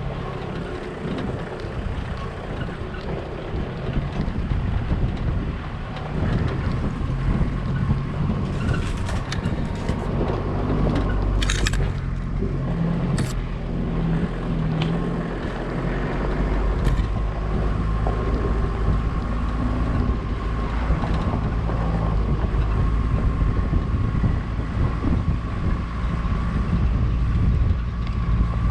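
A vehicle driving: a steady low engine and road rumble with wind noise on the microphone. A few sharp clicks come near the middle.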